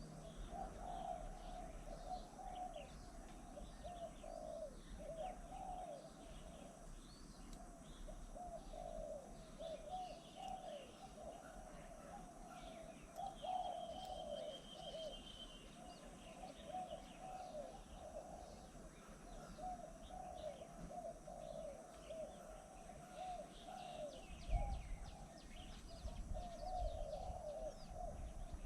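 Pigeons or doves cooing on and on in overlapping low notes, with small birds chirping higher up now and then.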